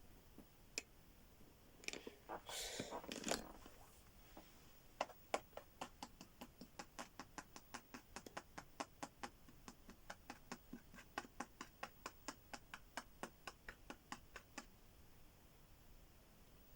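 Faint rustle about two seconds in, then a long run of light, quick taps or ticks, about four a second, that stops about fifteen seconds in; heard as someone knocking on the tiled Dutch stove.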